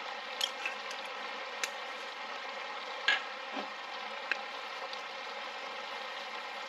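Diced vegetables sizzling steadily in a hot pot, with a few light clicks and knocks of a utensil against the pot, the loudest about three seconds in.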